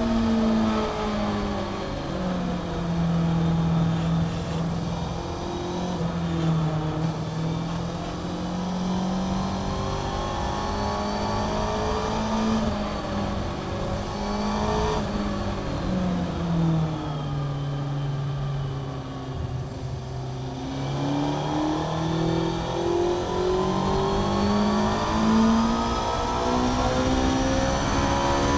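2011 Honda CBR600F inline-four with a Mivv aftermarket exhaust, heard from onboard while lapping a track. The engine note falls in steps as it is run down through the gears, settles lower, dips to its lowest for a few seconds past the middle, then climbs in steps through upshifts near the end.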